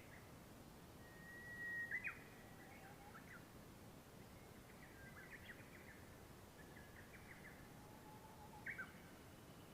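Faint birdsong in open country: a held whistle about a second in that breaks into quick chirps, then scattered short chirps, over a low steady background hiss.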